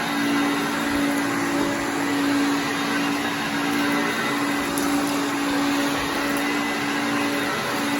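Hoover Concept One self-propelled upright vacuum cleaner running steadily: an even motor hum over rushing air.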